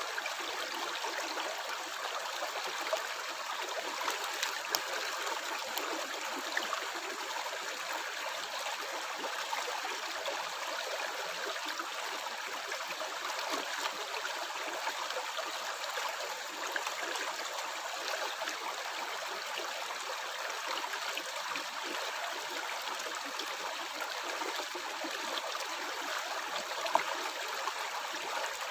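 A stream running steadily over rocks, a continuous rush of water with small gurgles and splashes here and there.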